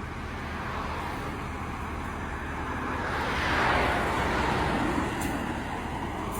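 Engine noise of a motor vehicle or heavy machine, swelling to a peak about halfway through and then easing off.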